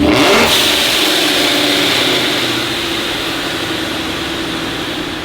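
Very loud car engine revved hard: it rises sharply at the start, then holds at high revs with a steady roar that slowly eases off.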